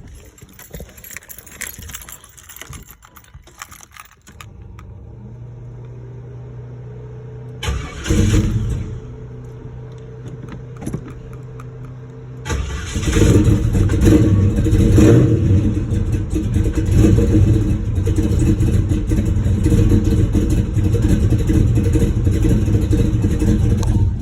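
Cold start of a 1988 Chevrolet box Chevy's engine, fitted with a big cam and a Holley 750 double-pumper carburetor. A steady low hum comes on about four seconds in and a short loud burst follows near eight seconds. About twelve seconds in the engine fires and runs loud and uneven at idle.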